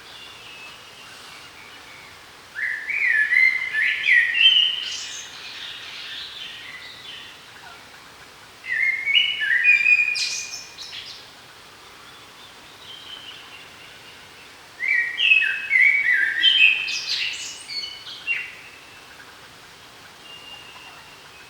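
A songbird singing: three short song phrases of quick, high whistled notes, each lasting two to three seconds and about six seconds apart.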